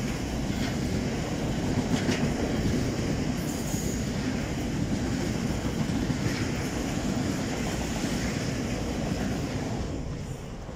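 Loaded oil tank wagons of a long freight train rolling past: a steady rumble of wheels on rail with scattered clicks over rail joints, fading away near the end as the tail of the train goes by.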